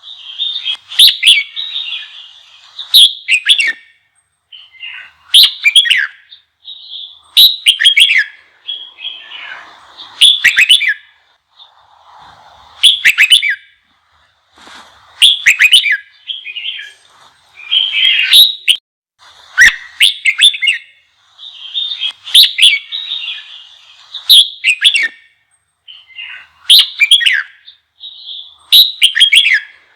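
Red-whiskered bulbul singing a heated, fired-up song. Short loud whistled phrases with quick sweeping notes come about every two and a half seconds, with softer chatter between them.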